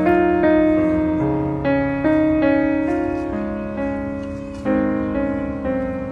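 Background music: a slow piano melody, chords struck every second or two and left to ring and fade.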